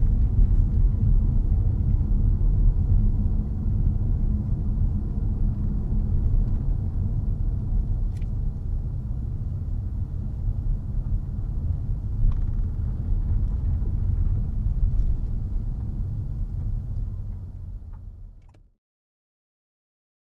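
Steady low rumble of a 2022 Honda HR-V e:HEV hybrid driving, heard from inside the cabin, with a few faint ticks. It fades out about seventeen seconds in and cuts to silence.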